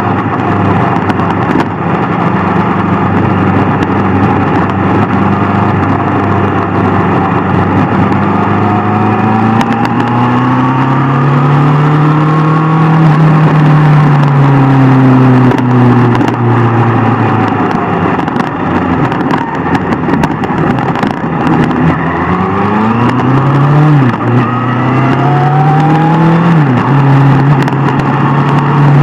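Superbike engine running at speed: a steady note at first, then rising and falling with the throttle. Near the end it climbs twice, each time dropping suddenly as the next gear is taken.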